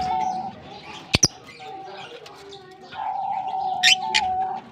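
Lovebirds chirping: sharp, high calls, a pair just over a second in and several more near the end, over a steady droning tone.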